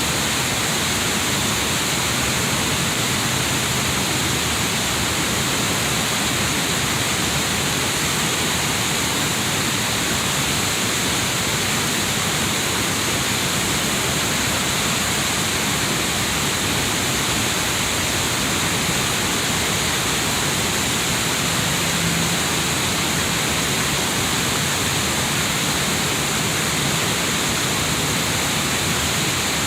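Steady, loud rush of a river waterfall, an even roar of falling water with no breaks.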